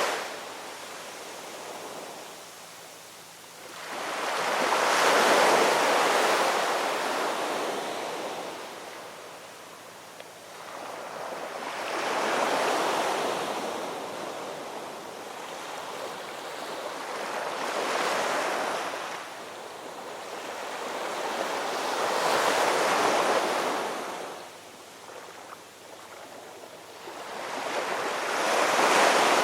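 Ocean waves breaking and washing up on the shore, swelling and fading five times, about every five to six seconds.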